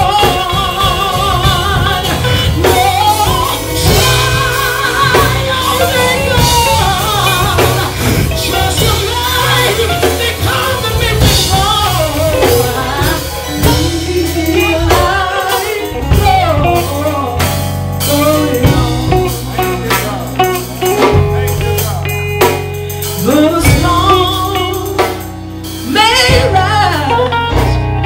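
Gospel music: singing with vibrato over a band with guitar, drums and a steady low bass.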